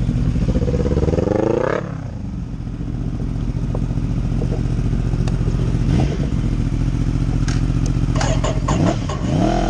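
Motorcycle engine running at idle, revved up and let fall about a second in, blipped briefly around the middle, and revved again near the end.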